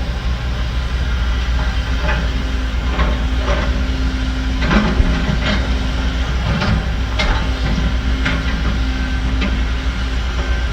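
Heavy diesel construction machinery running steadily with a deep drone, with a series of short metallic clanks and squeals from about two seconds in until near the end.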